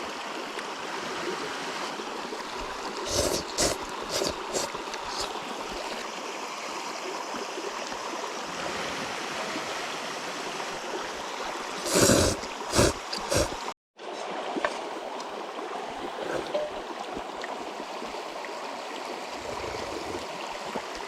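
A river flowing steadily, an even rushing hiss, with a few short louder noises about three to four seconds in and a louder burst about twelve seconds in; the sound drops out for a moment about fourteen seconds in.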